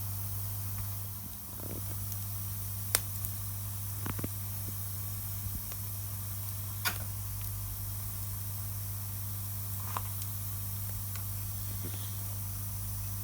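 Wood campfire burning with a steady hiss and a few sharp, scattered crackling pops, the loudest about three seconds in.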